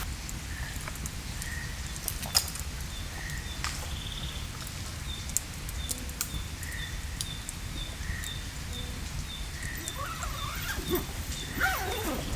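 Forest birds calling: a long run of short, evenly repeated high notes, about three a second, with chirpy rising and falling calls near the end. Under them runs a low steady rumble, broken by a few sharp clicks.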